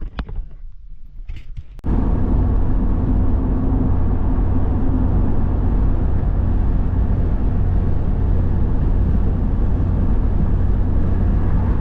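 A car being driven on the road: a steady low rumble of engine and tyres with a constant hum. It starts suddenly about two seconds in, after a few brief faint knocks.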